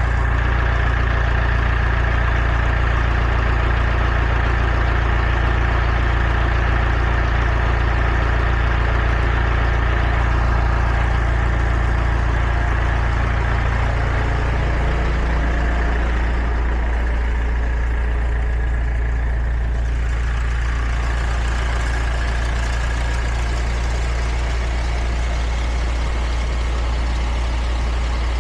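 A heavy truck engine running steadily; about halfway through, its note drops lower.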